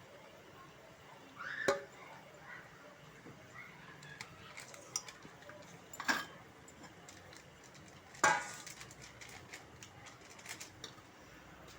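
Kitchen utensils clattering now and then: three sharp knocks of metal pots or spoons, the loudest about eight seconds in, over a low background.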